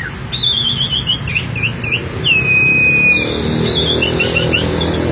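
Asian pied myna (jalak suren) singing a string of loud whistles: a quick warbling trill, three short looping notes, a long level whistle about two seconds in, then more warbling notes, over a low background rumble.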